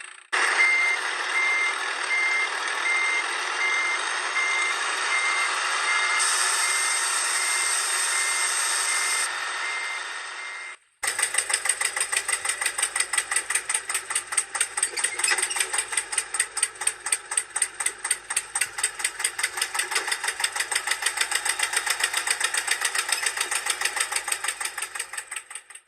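A heavy vehicle's reversing alarm beeping at an even pace over engine noise. It cuts off suddenly about eleven seconds in, and an engine then chugs in a fast, even rhythm of several beats a second.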